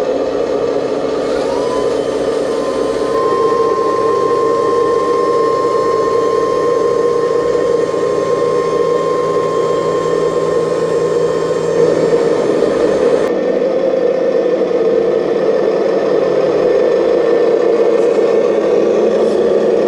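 Radio-controlled model excavator running, a steady electric motor whine with a thin high tone that holds for several seconds in the middle, then the sound shifts as the machine changes motion.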